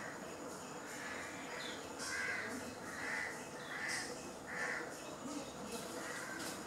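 A bird calling: a run of about five short calls, a little under a second apart.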